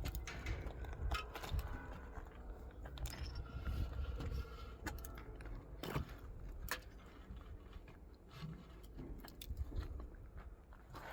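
Irregular crunching with scattered sharp clicks over a low rumble.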